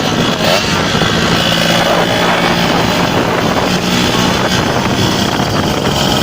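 Kawasaki Ninja R two-stroke motorcycle engine running loud and steady through an aftermarket 'bambu' racing exhaust.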